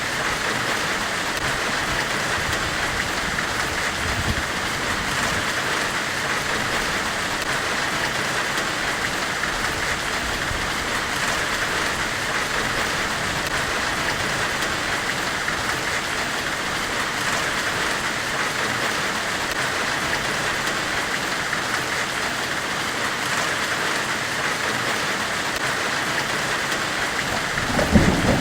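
Steady forge-weld hiss from a white-noise track: an even hiss with no hammer blows, and a short low rumble swelling up near the end.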